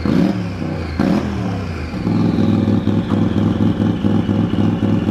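Turbocharged side-by-side engine revved in two quick blips near the start, each with a sharp snap, then running with a steady lumpy pulse from about two seconds in, while a high turbo whine falls slowly.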